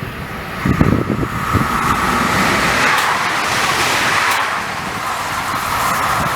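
A train passing the lineside: a steady rolling rush that swells about two seconds in and holds, with a steady whine running through it. Wind buffets the microphone about a second in.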